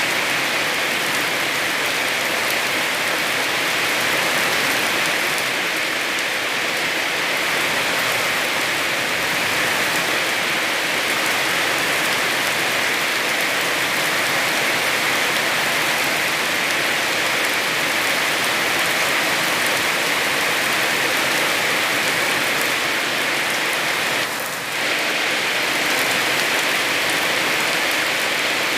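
Heavy rain falling steadily, a dense, even hiss, with a brief dip in level about 24 seconds in.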